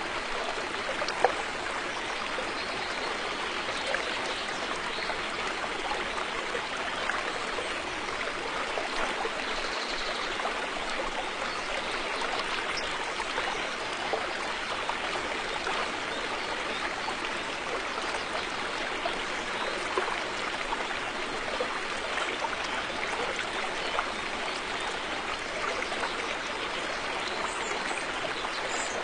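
River water flowing steadily, a continuous rush with small trickles and splashes ticking through it.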